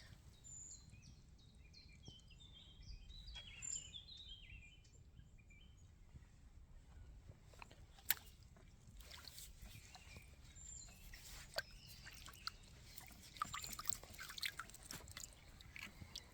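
Faint woodland sounds: a small bird sings a quick run of short, high, falling notes in the first few seconds, then crackling and rustling of dry leaves and twigs, with one sharp snap about eight seconds in.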